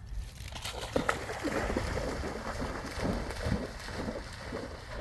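A dog splashing and wading through a puddle, water sloshing with a few louder splashes, over a low rumble of wind on the microphone.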